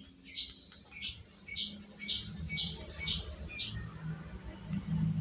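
A small bird chirping repeatedly, about two short high chirps a second, stopping after about three and a half seconds.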